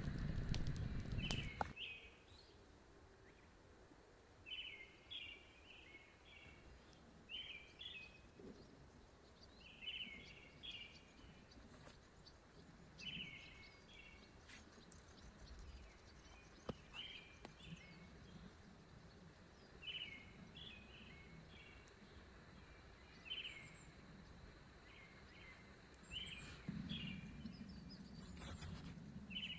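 A bird calling over and over, a short phrase of a few quick chirps every two to three seconds, over a faint steady outdoor hiss. A louder low rushing noise fills the first second and a half and comes back near the end.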